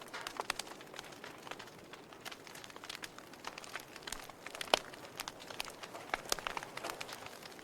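Wood fire burning in a fireplace: a steady hiss with irregular sharp crackles and pops from the burning logs, the loudest snap a little under five seconds in.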